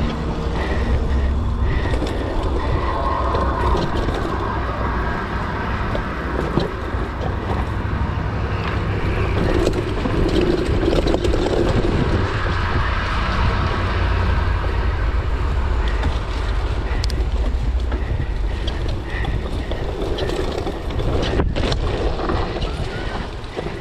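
Mountain bike descending a wet, slippery dirt trail: steady wind rushing over the camera microphone, with the bike clattering and knocking over bumps throughout.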